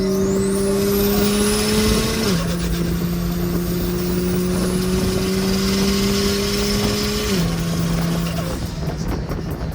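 Single-turbo BMW N54 straight-six pulling under acceleration. The engine note climbs steadily, then drops suddenly twice, about two seconds in and again about seven seconds in, as the car upshifts.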